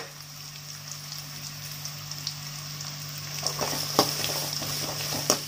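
Chopped onions, garlic and curry leaves sizzling in hot oil in a metal kadai, over a low steady hum. A spatula knocks against the pan a few times in the second half as the onions are stirred.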